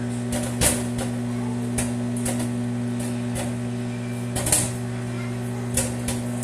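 Microwave oven humming steadily while popcorn pops inside a paper bread bag, about half a dozen sharp pops a second or so apart.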